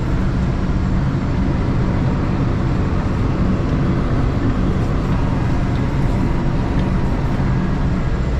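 RoGator self-propelled sprayer running steadily under way: an even engine drone with a constant hiss over it.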